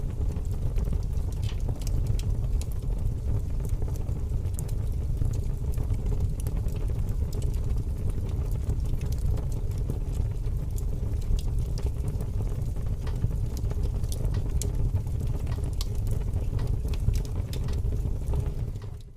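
Aquarium pump and filter running: a steady low rumble and hum from the water and equipment, with scattered small pops and patter of bubbles.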